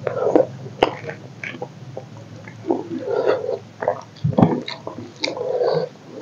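Close-miked wet chewing and lip smacking of a mouthful of rice and chicken curry eaten by hand, in irregular bursts with a few sharp mouth clicks.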